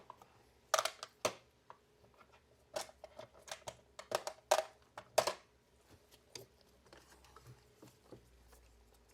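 Plastic clicks, taps and short scrapes of a robot vacuum's housing being handled and unclipped during disassembly. They come in a quick irregular run through the first half and thin out to a few faint ticks after that.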